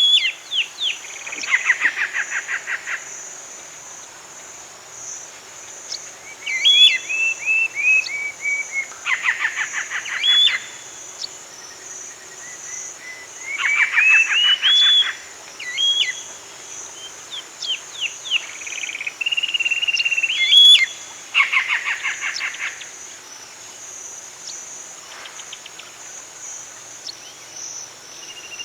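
A songbird singing phrases of quick rising chirps and fast trills, a burst every few seconds, over a steady high insect drone.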